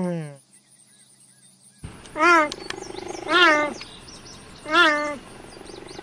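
The tail of a koala's falling call, then, after a short silence, a cheetah giving three short chirping calls about a second and a half apart, each rising and falling in pitch.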